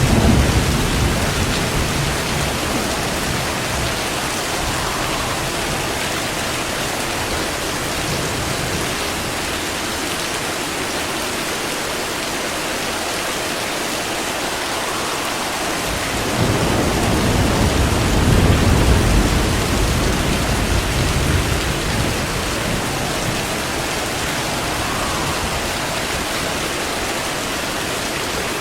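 Steady heavy rain with rolling thunder: a low rumble fading over the first few seconds, then a long rumble swelling about halfway through and dying away over several seconds.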